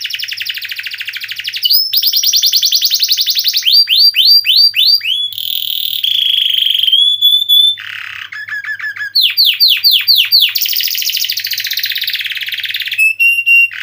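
Domestic canary singing a continuous song of long rapid trills, each a fast buzzing roll, broken by runs of quick downward-sweeping notes and a few short held whistles.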